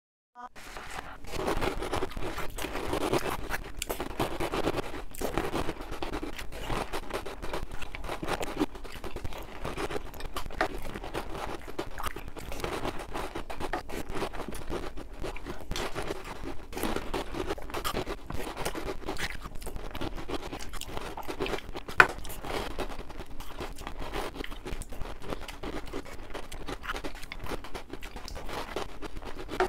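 Close-miked chewing of Oreo O's chocolate cereal: a dense, irregular crunching and crackling, with one sharper crack about 22 seconds in.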